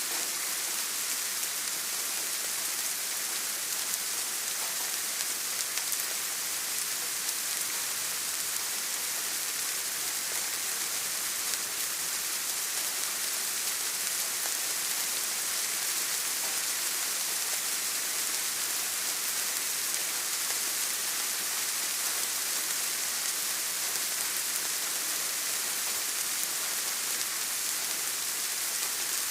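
Steady rain falling, an even hiss with fine pattering of drops that holds constant throughout.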